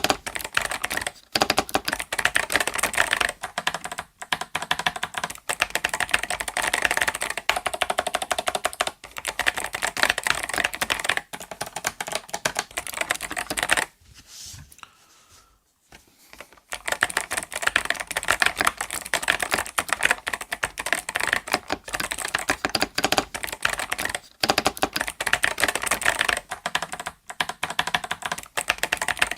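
Fast typing on the 8BitDo Retro Mechanical Keyboard M Edition with its stock Kailh Box White V2 switches, a dense stream of sharp clicks that the typist calls super clicky. The typing stops for about two seconds around the middle, then carries on.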